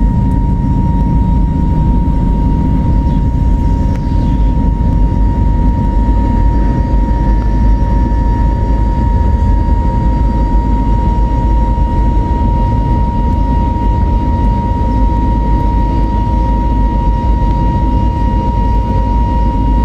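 Airbus A320neo cabin noise: a steady, loud low rumble of engines and airflow with a steady high whine over it.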